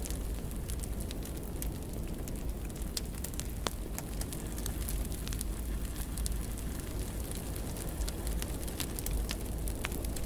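Wood fire burning in a fireplace: a steady low rumble of the flames with frequent small crackles and pops, one sharper pop a little before the middle.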